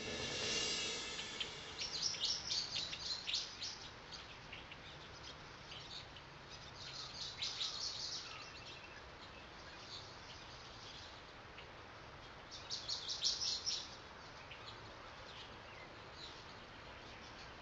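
Wild birds chirping in quick high bursts, in three spells, over a faint steady background hiss.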